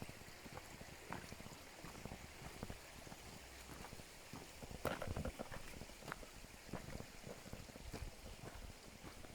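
Footsteps of people walking on a forest trail, an irregular run of scuffs and knocks, with a louder scuff about five seconds in.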